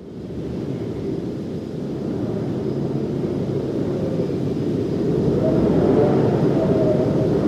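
A low, steady rumble fades in from silence and slowly grows louder, with a faint high tone held above it.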